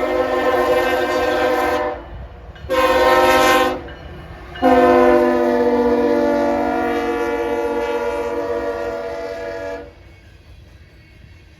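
Freight locomotive's multi-chime air horn sounding the grade-crossing pattern. A long blast ends about two seconds in, a short blast follows, then a final long blast of about five seconds. A low rumble from the train is left after the horn stops.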